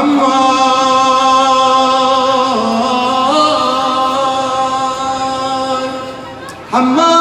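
A man chanting in a Shia devotional recitation, holding one long note without words. The note dips and rises in pitch near the middle, fades about six seconds in, and a new note starts just before the end.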